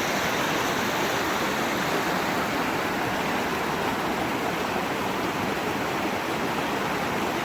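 Steady rush of flowing water from a mountain stream or waterfall, an even, unbroken noise.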